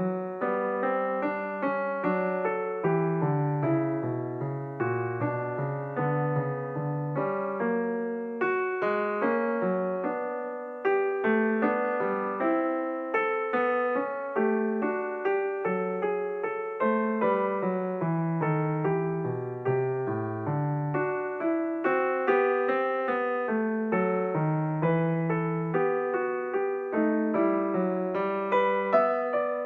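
Background piano music: a steady stream of notes, each struck and then fading.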